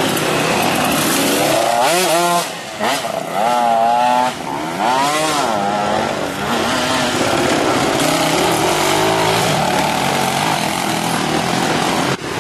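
Off-road dirt-bike engines revving under load, rising and falling in pitch in quick surges, then settling into a steadier drone of engines pulling.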